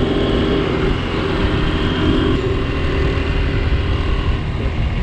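A 1972 Honda CL100's small single-cylinder four-stroke engine running steadily while riding, with wind rumbling on the microphone. Its engine note changes abruptly about two and a half seconds in.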